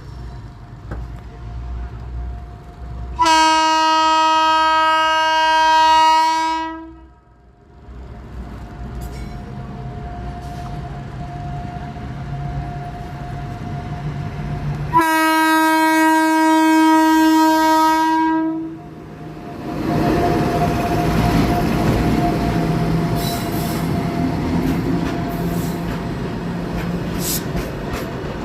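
Vande Bharat Express train sounding two long, steady horn blasts several seconds apart, then rushing past at speed with the clatter of its wheels over the rail joints.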